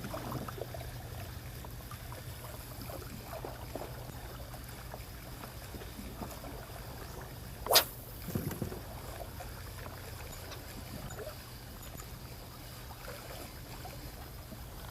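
A steady low hum runs throughout, with faint small handling sounds and one sharp click a little past the middle.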